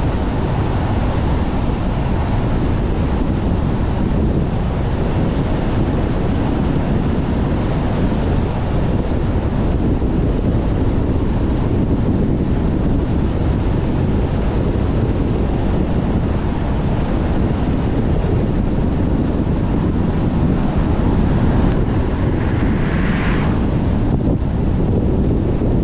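Strong gusting wind buffeting a moving car, blended with its road noise as one steady, heavy rumble. A brief higher hiss comes near the end.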